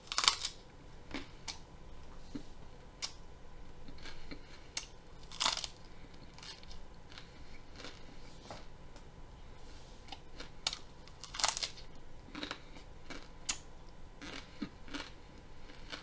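A person biting into and chewing hard raw broccoli florets: irregular crisp crunches, the loudest at the first bite and again at big bites about a third and two thirds of the way through.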